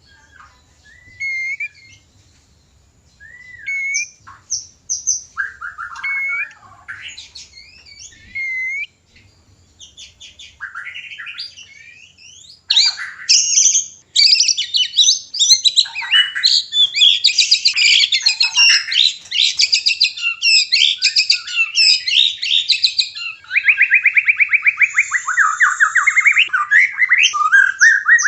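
White-rumped shama (murai batu) mating calls and song: short rising whistled calls a second or two apart, then from about halfway a dense, fast run of varied song notes, ending with a rapid trill that climbs in pitch.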